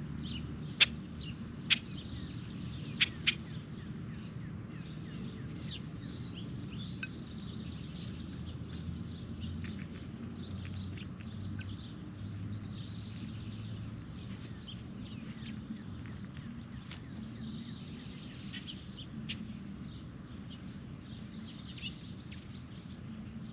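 Wild birds chirping and calling in short, overlapping notes, with four loud sharp clicks in the first few seconds, over a steady low rumble.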